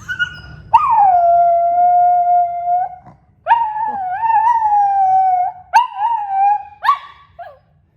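Small Yorkie-mix dog howling: three long wavering howls, the first falling in pitch and then held, with short yips at the start and near the end.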